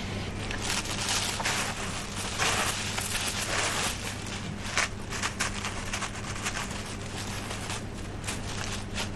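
Dense, irregular crackling and rustling, with clusters of sharp clicks, over a steady low electrical hum from the camera.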